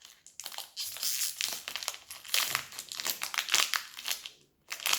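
Crinkly toy packaging being handled and opened: a dense, irregular run of crackles with a short pause near the end.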